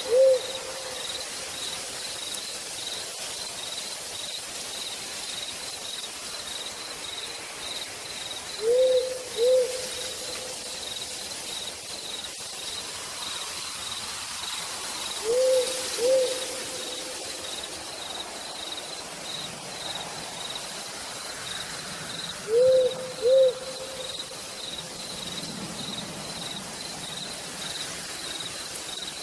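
Steady rain falling through a forest at night, with an insect chirping in a high, evenly pulsing note throughout. A low two-note hoot sounds four times, about seven seconds apart, and these hoots are the loudest sounds.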